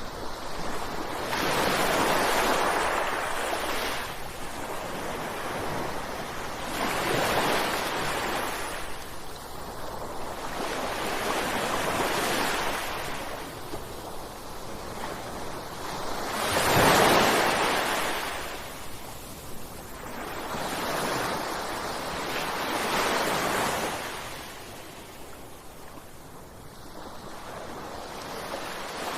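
Ocean waves breaking on shore, a wash of surf that swells and falls in surges about every five seconds, the loudest a little past the middle.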